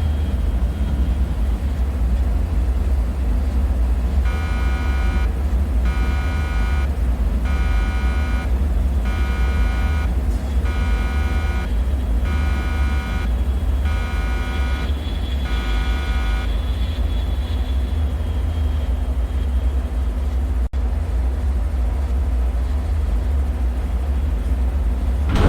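Steady deep rumbling drone of a dark ambience soundscape. From about four seconds in, a multi-pitched electronic alarm-like tone pulses about eight times, roughly once every second and a half, then stops.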